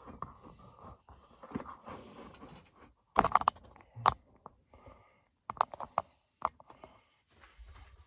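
Handling noise from a camera being moved around: rustles and a few sharp knocks, clustered about three seconds in and again around six seconds.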